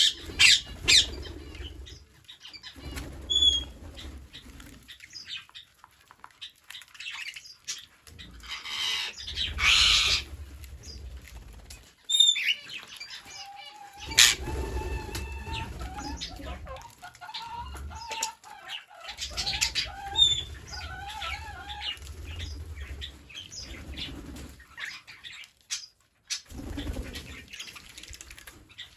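Green parrots flapping their wings in repeated short bursts, with scattered short chirps and calls between them.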